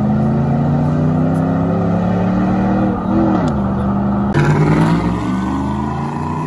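A car engine held at high revs, its pitch slowly climbing, briefly dropping and surging back about three seconds in. A sudden, harsher burst of engine noise cuts in about four seconds in, then fades a little toward the end.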